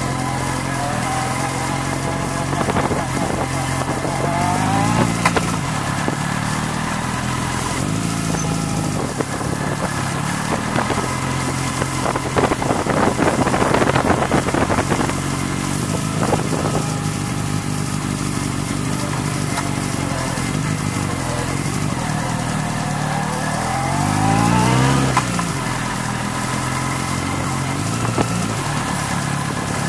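Motorbike engine running on the move, its pitch rising twice as it revs up to accelerate, a few seconds in and again near the end, with a louder rough stretch of noise around the middle.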